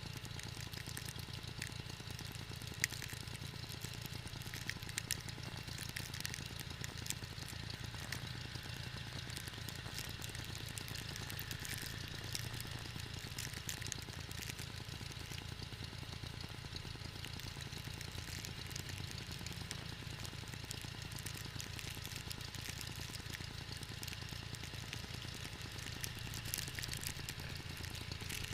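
John Deere 318 garden tractor's twin-cylinder engine running steadily, with scattered light clicks over it.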